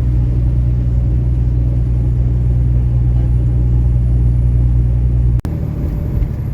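Semi truck's diesel engine and road noise droning steadily as a low rumble while driving on the highway. About five seconds in, the sound cuts off abruptly and resumes as a rougher, uneven rumble.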